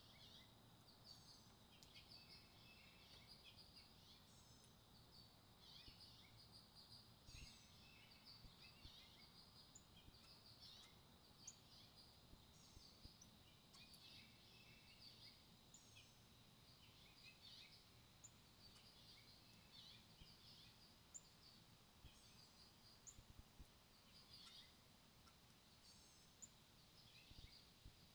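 Faint outdoor birdsong: many short chirps and trills from several small birds, scattered all through, over a low steady background hum.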